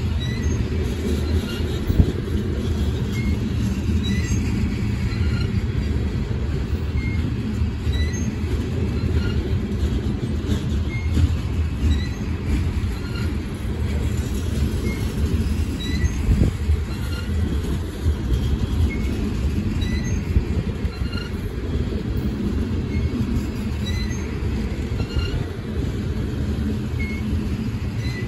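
Coal gondola cars of a long freight train rolling past: a steady low rumble of steel wheels on rail, with short, faint, high-pitched squeaks recurring about once a second.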